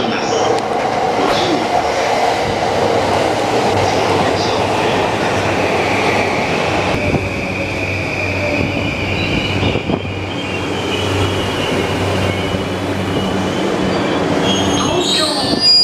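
JR Yamanote Line electric train pulling into the platform and braking to a stop. Wheels run on the rails, a whine falls in pitch as it slows, and a short sharp sound comes near the end as the doors begin to open.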